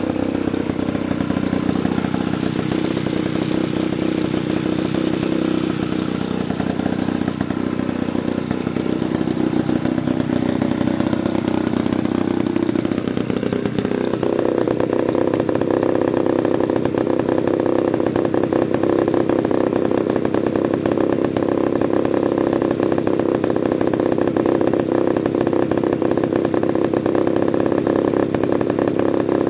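Danarm MKI two-man chainsaw's engine running continuously; about halfway through it picks up to a higher speed and holds there steadily.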